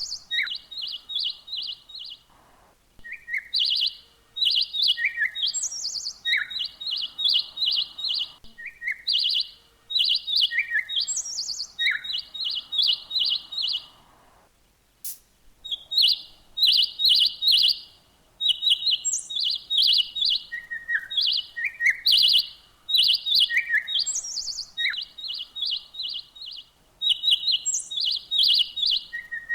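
Small songbirds chirping: quick runs of short, high chirps, several a second, mixed with occasional lower notes and brief higher whistled notes. The chirping breaks off briefly about two seconds in and again around fourteen seconds.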